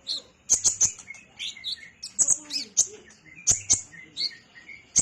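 Kolibri ninja sunbird singing: a lively run of sharp, very high chips and short twittering trills, with softer notes in between.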